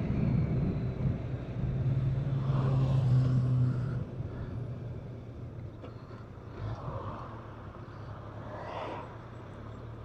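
BMW K1200RS motorcycle's inline-four engine running under way, with a steady engine note and road noise. It drops noticeably quieter about four seconds in.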